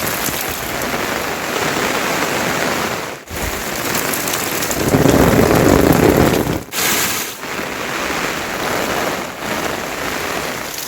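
Heavy rain falling steadily in a loud, even hiss. It grows louder and deeper for a second and a half about halfway through, and drops out briefly three times.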